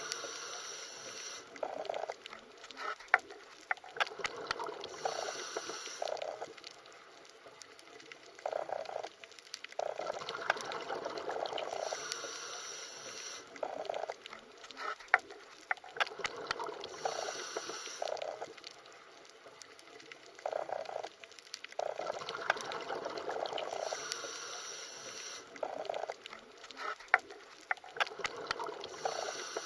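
Underwater water sounds: bubbling and gurgling that swells and fades in bursts every few seconds, with scattered sharp clicks.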